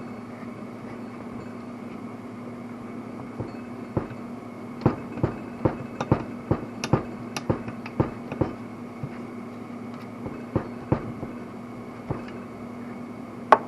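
Irregular sharp metallic clicks and taps of hand tools and engine parts being handled during top-end work on a two-stroke motorcycle engine. The clicks come in a cluster from about four seconds in to about eleven seconds, with one more near the end, over a steady low hum.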